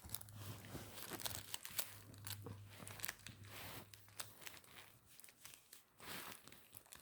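Crinkly plastic rustling and crackling in quick, irregular runs, thinning out about four and a half seconds in and picking up again near the end.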